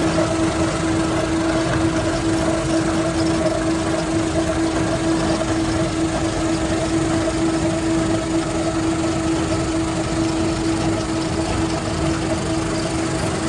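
Machinery in a sawdust pellet factory running steadily, with a constant mechanical hum and a strong steady pitch over a noisy rumble.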